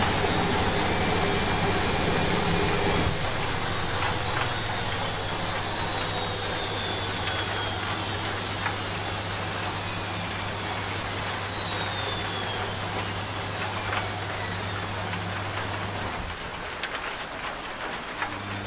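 Washing machine winding down from a spin, its whine falling steadily in pitch over a hiss of rain. The low motor hum cuts out about 16 seconds in and starts again near the end.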